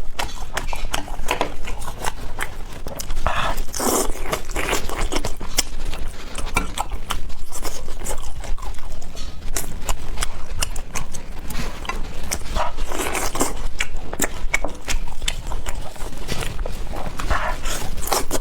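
Close-miked eating sounds: chewing, lip smacking and slurping in a quick irregular run of wet clicks and crunches.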